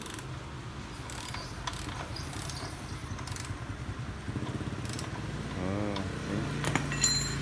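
Sharp metallic clicks and rattles of hand tools working on a motorbike's drive chain and chain adjuster, over a steady low engine hum; the sound grows louder about four seconds in.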